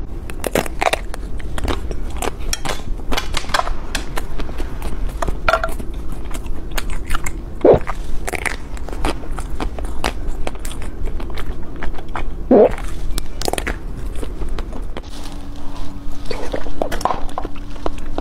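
Close-miked eating: bites into a soft, powder-dusted purple sweet and wet chewing, with many small mouth clicks and smacks and a few louder squelchy mouthfuls.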